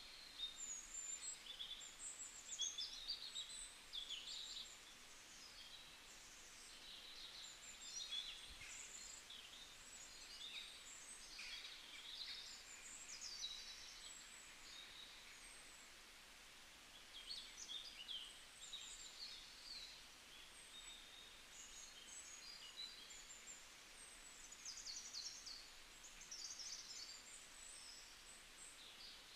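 Faint, irregular chirping of small birds that carries on throughout, over a quiet hiss.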